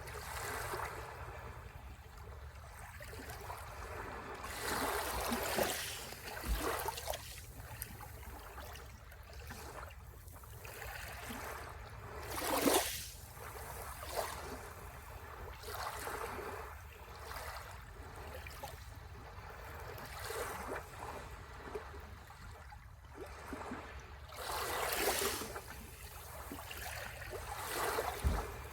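Sea waves washing onto the shore, swelling and falling away every few seconds, with the strongest wash about twelve seconds in and again around twenty-five seconds.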